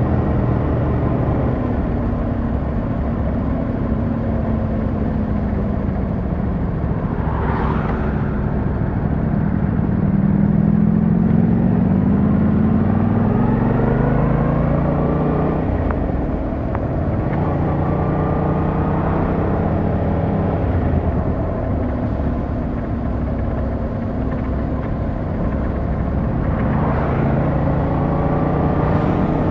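Yamaha MT-07's 689cc parallel-twin engine running under way, its pitch climbing and dropping again and again as the rider accelerates, changes gear and eases off.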